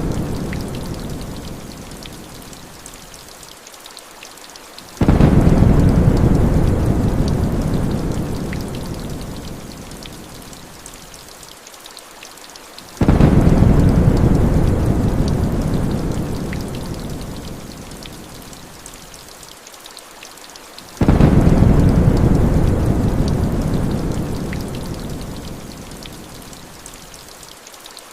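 Thunder: three deep rolls about eight seconds apart, each starting suddenly and fading away over several seconds. Rain hisses steadily underneath.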